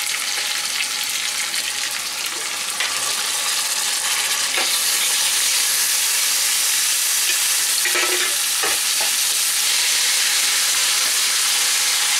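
Sliced onions sizzling in hot oil in a nonstick wok, stirred with a wooden spatula; partway through, yogurt-marinated chicken goes in and the frying hiss grows denser and a little louder, with a few knocks of the spatula against the pan.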